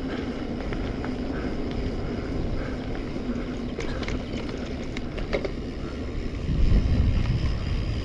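Wind buffeting a chest-mounted camera microphone and a low rumble from a mountain bike on the move, with a few sharp clicks in the middle. The wind gets stronger for a moment near the end.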